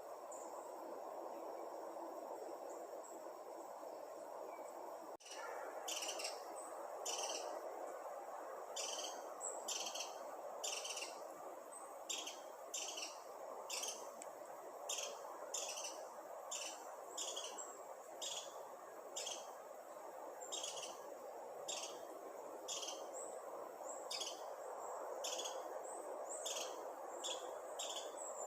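A bird chirping over and over, short high calls about one to two a second, starting about five seconds in after a brief dropout. Before that a steady high insect trill is heard. A steady background rush runs throughout.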